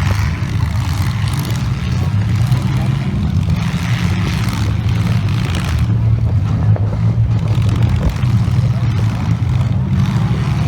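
Several demolition derby cars' engines running loudly together, in a low steady drone that swells and eases.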